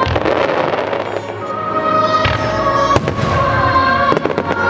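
Aerial firework shells bursting overhead: several sharp bangs, one at the start and more about two to three and a half seconds in, with music playing underneath.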